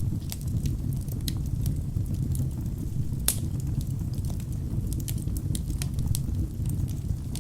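Wood fire burning in a fireplace: a steady low rumble of flames with frequent sharp crackles and pops from the burning logs, one louder pop a little past the middle.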